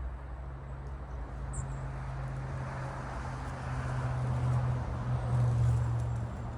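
A vehicle passing: a rush of noise that swells and peaks about five seconds in, over a steady low hum.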